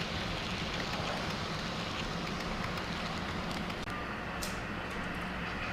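HO scale model train running on the layout: a steady rumble and whir with faint scattered ticks, and a brief high hiss about four and a half seconds in.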